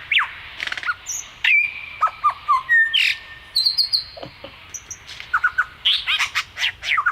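Superb lyrebird singing a rapid, varied run of mimicked calls: sliding whistles, short held notes and several sharp clicks.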